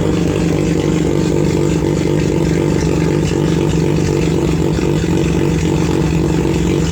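Mazda 13B two-rotor Wankel rotary engine of a Formula Mazda race car running at a steady speed, without revving.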